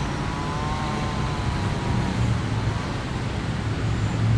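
A steady low hum with an even rushing noise over it, like distant motor traffic. Faint wavering tones around the pitch of a whistle fade out about two seconds in.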